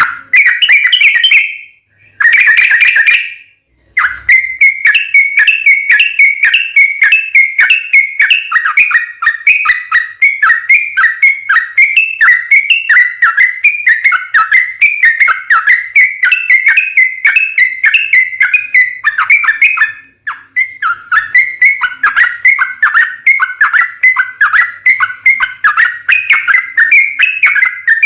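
Yellow-vented bulbul (trucukan) singing loudly: two short phrases, then long fast runs of quick whistled notes, several a second, with a brief break about two-thirds of the way through. This is the long, rapid 'ropel' song used as a lure to make other trucuk birds answer.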